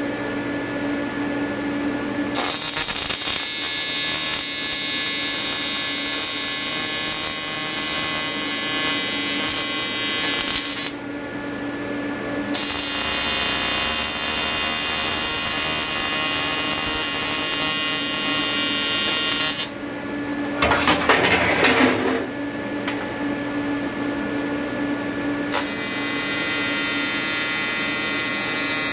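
AC TIG welding arc on an aluminium intercooler from an Everlast 325EXT on advanced square wave at 100–150 Hz, buzzing steadily in three long welds: the arc strikes about two seconds in, breaks near eleven seconds, restarts, stops near twenty seconds and strikes again near the end. Between welds the machine hums steadily, with a short burst of a different noise about twenty-one seconds in.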